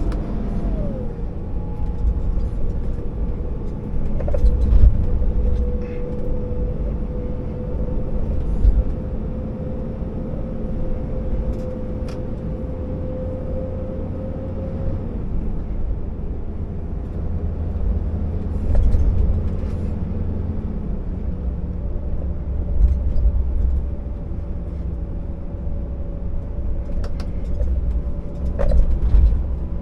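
Scania R650 timber truck's V8 diesel engine running steadily under a heavy load, with a low rumble; its tone drops about a second in, then holds. A few sharp knocks and rattles come through along the way.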